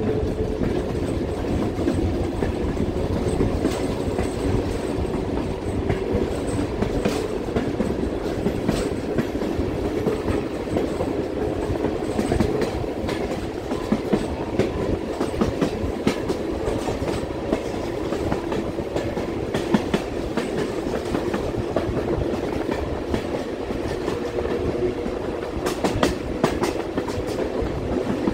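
Passenger railroad car rolling along the track: a steady rumble and low hum from the wheels and car body, with irregular clicks and clacks from the wheels over the rails, more of them near the end.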